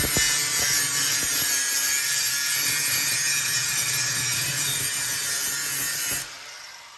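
Power tool cutting or grinding steel, a steady grinding noise that stops abruptly about six seconds in.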